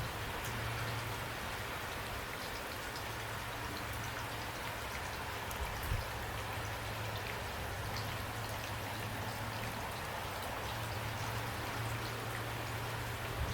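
Steady rain falling, an even hiss with individual drops ticking through it and a couple of louder drop hits about six seconds in.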